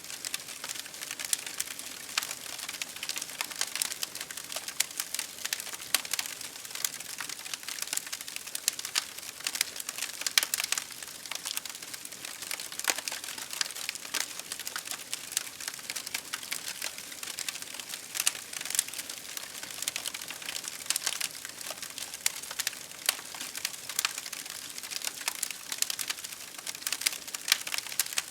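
Campfire crackling: dense, irregular pops and snaps of burning wood, several a second, over a steady hiss of rain.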